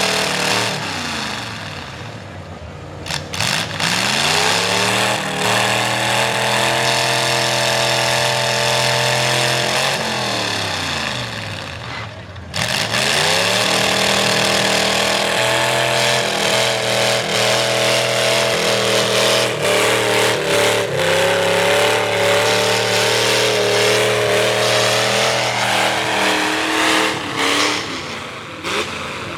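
A V8 Ford mud truck with open upright headers revving hard under heavy throttle. The revs drop and climb back twice, about a few seconds in and again near the middle, jumping back to full throttle each time.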